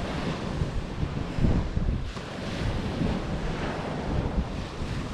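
Wind buffeting the microphone in uneven gusts, with ocean surf washing steadily behind it.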